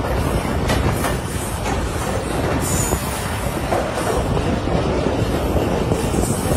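Train running on the track, heard from aboard the moving carriage: a steady noise from the wheels and carriages, with a few sharp clicks about a second in.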